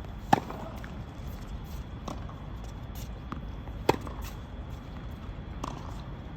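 Tennis rally: a ball struck by rackets and bouncing on the court. Two sharp, loud hits come about three and a half seconds apart, with fainter knocks between them.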